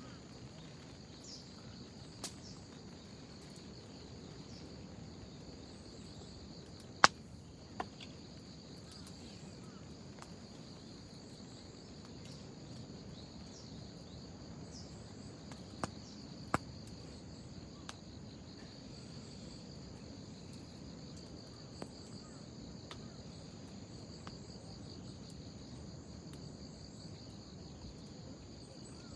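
Wood fire crackling, with a few sharp pops scattered through, the loudest about seven seconds in. Behind it is a steady chorus of insects, like crickets.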